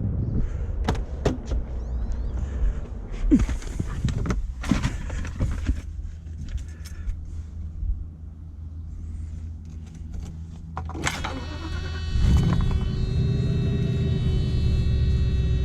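Car door clicks and knocks as someone gets in, then about eleven seconds in the 1990 Mercedes-Benz 420 SEL's V8 is cranked on a cold start, catches and keeps running steadily.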